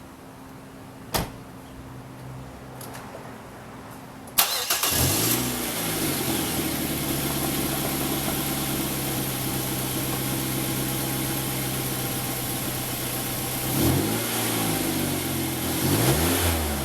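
A 2008 Mazda 5's engine starting about four seconds in and settling into a steady idle, with two brief revs near the end; there is a single click about a second in. It now starts because the starter solenoid's positive cable, the cause of the no-start, has been firmly reconnected.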